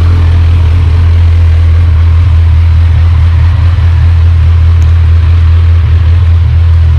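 Kawasaki Z1000R's inline-four engine idling steadily with its stock mufflers fitted.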